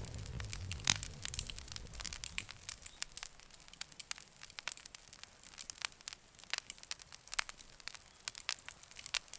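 Campfire crackling, with irregular sharp pops and snaps of burning wood. A low rumble of flames sits under it for the first couple of seconds, then dies away, leaving only the scattered crackles.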